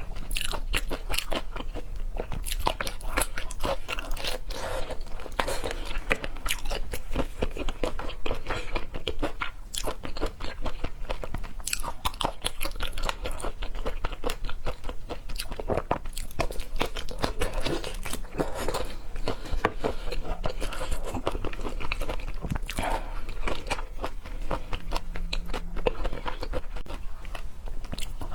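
A person chewing and crunching food close to the microphone, a steady run of many small crackling clicks and bites.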